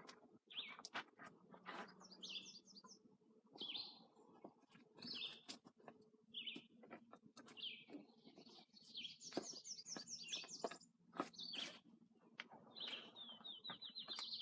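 Small songbirds chirping, with several rapid trilled phrases, about two seconds in, around nine to eleven seconds in and again near the end, mixed with scattered sharp clicks and knocks.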